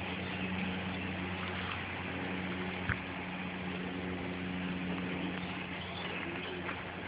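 Steady low mechanical hum over an even background hiss, with a single short click about three seconds in.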